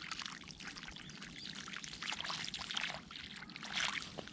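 Water pouring and splashing unevenly, a faint crackly hiss that varies as it goes.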